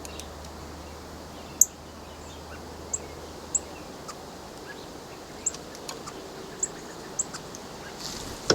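A bird at a seed feeder giving short, sharp, high chip notes, about seven of them at uneven intervals, with a few faint clicks in between, over a steady outdoor hiss.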